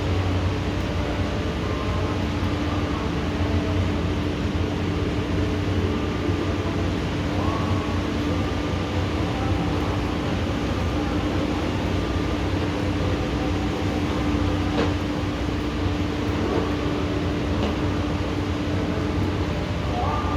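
Steady rushing noise of a heavy rainstorm, even and unbroken, with a constant low hum beneath it.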